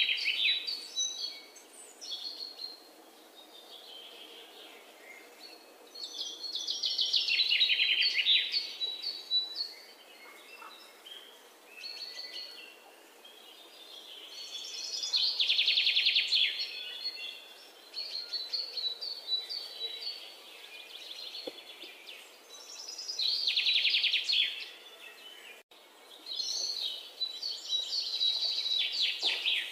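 Birds singing: a loud, rapid trill that comes back about every eight seconds, with softer chirps in between.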